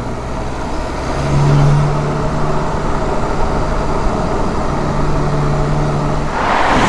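A car engine running steadily, with a rising rush of noise near the end.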